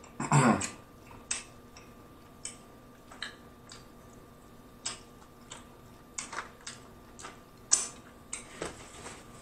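Close-miked chewing of a crunchy hard-shell taco: irregular sharp crunches and mouth clicks, scattered through with a denser cluster later on. A brief vocal sound comes right at the start.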